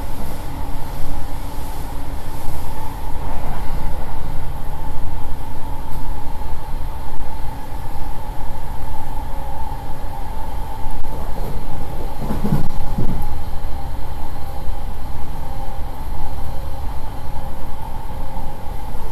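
Interior running noise of a JR East E231-800 series electric commuter train at about 90 km/h: a steady rumble of wheels on rail with a constant high hum over it. A short, deeper surge about twelve seconds in.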